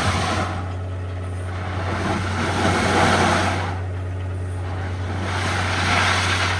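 Borewell drilling rig at work: a steady engine hum under a rushing noise that swells and fades about every three seconds.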